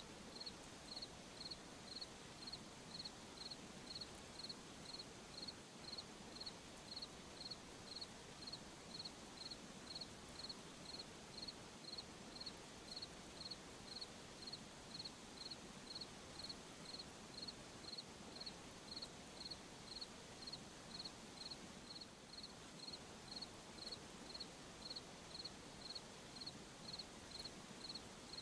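Cricket chirping in a steady, even rhythm, about three high chirps every two seconds, over a soft night-time hiss.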